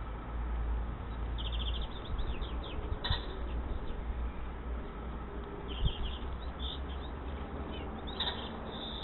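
Small garden birds chirping in short quick series of high notes, in three bouts with gaps between, over a steady low rumble.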